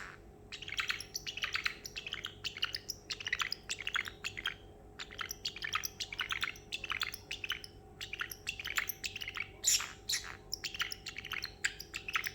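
Parrotlet imitating running water, a shower: a fast, irregular stream of short hissy chirps and clicks.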